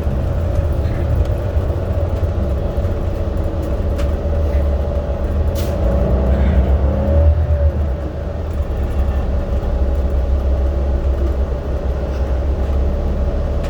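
Subway train running: a steady low rumble with a constant whine above it. A brief sharp high squeak comes about five and a half seconds in.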